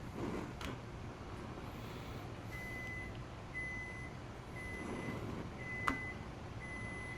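A kitchen appliance's timer beeping: five steady high-pitched beeps, each about half a second long, one a second. A sharp click falls between the fourth and fifth beep.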